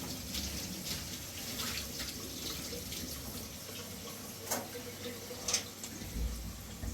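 Water running steadily, as from a tap, with a couple of sharp clicks or knocks near the end.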